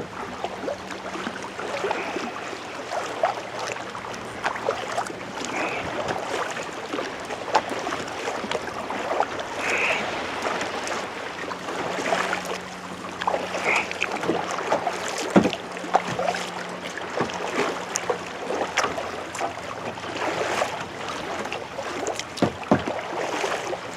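Kayak paddling heard close up: the paddle blades dipping and splashing in the sea water, with irregular drips and splashes throughout.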